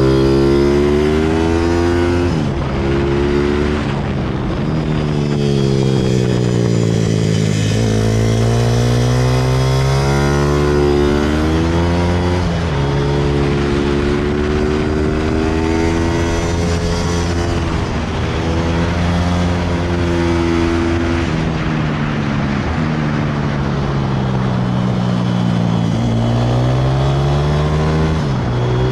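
A 160cc single-cylinder pit bike engine accelerating and slowing over and over, its pitch rising and falling every few seconds with a few sudden drops.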